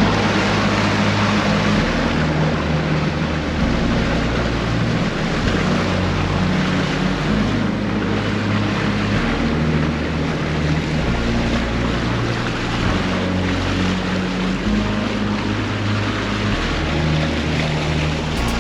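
Speedboat under way at speed: a steady rush of wind and water over a low, shifting drone from its 300 hp engine.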